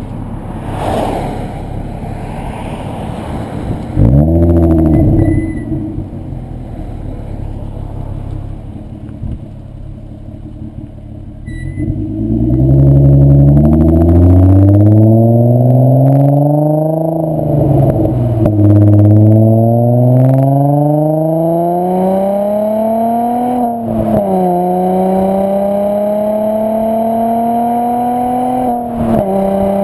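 VW 2.8 VR6 24V engine breathing through a Milltek non-resonated exhaust: a quick rev blip about four seconds in, then from about twelve seconds it accelerates, its revs climbing steadily and dropping sharply at each upshift, three times before the end.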